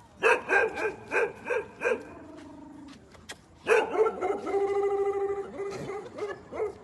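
A dog barking, a quick run of about six barks in the first two seconds, then after a short low buzzy sound a long drawn-out call with wavering pitch, like a howl.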